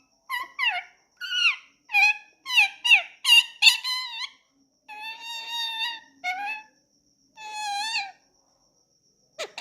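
Indian ringneck parrot chattering in a string of short, high-pitched, speech-like phrases with brief pauses between them, breaking into a harsh squawk at the very end.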